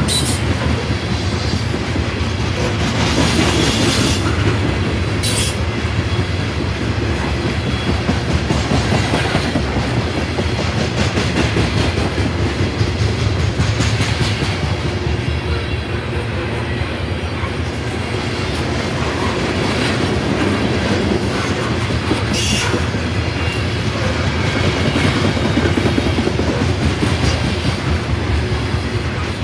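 Norfolk Southern freight train's cars rolling past steadily, wheels clattering on the rails, with a few brief higher-pitched flares.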